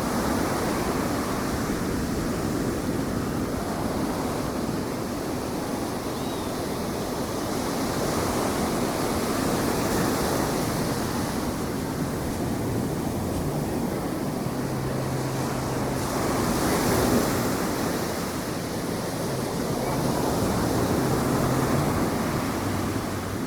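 Ocean surf washing onto the beach in slow swells, with wind on the microphone. A faint low hum comes in during the second half.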